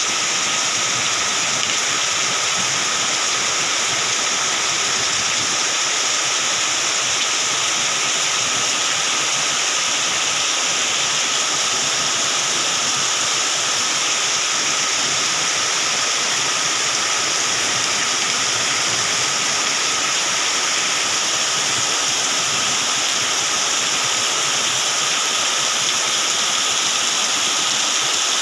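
Heavy rain falling steadily: a dense, even hiss of downpour that does not change.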